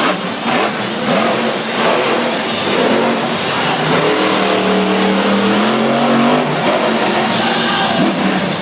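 Monster truck engine at high revs, its pitch rising and falling as the throttle is worked and holding steady for a couple of seconds midway.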